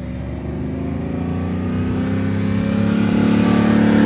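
Pickup truck engine revving steadily higher under acceleration, growing louder as the revs climb. The truck is held in first gear, so it does not shift up.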